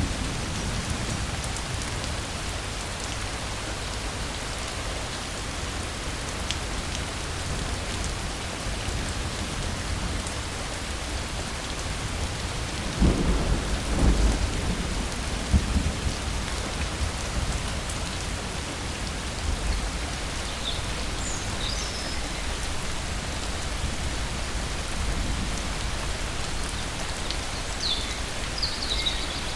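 Steady rain falling, with a rumble of thunder about thirteen seconds in that lasts a few seconds. A few faint high chirps come near the end.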